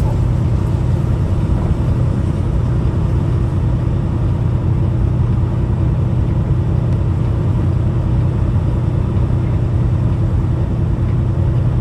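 Peterbilt 579 semi truck's diesel engine running steadily under way, a constant low drone mixed with road noise.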